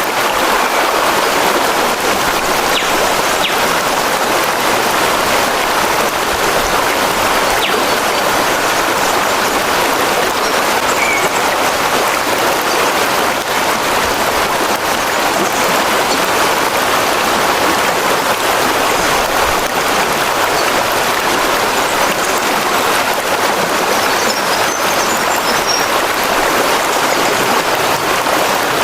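Stream water rushing steadily, with a few faint high chirps near the end.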